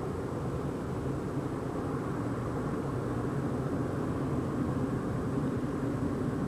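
A steady, deep rumbling roar that goes on without letting up, with no breaks or separate events. Its source is unexplained, and it is not wind or rain.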